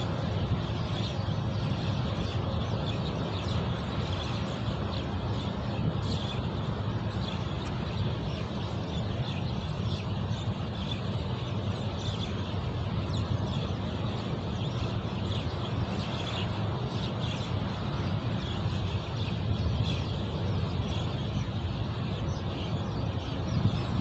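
Scattered short bird chirps and calls over a steady low rumble.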